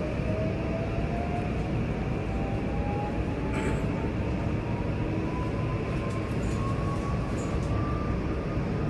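Interior of a JR West 323-series electric train accelerating: the traction motor and inverter whine rises slowly and steadily in pitch over a constant rumble of wheels on rail.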